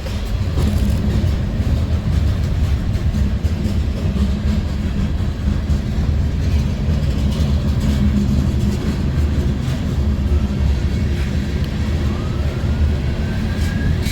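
Train rolling past with a steady, loud low rumble. Near the end a siren begins to rise in pitch.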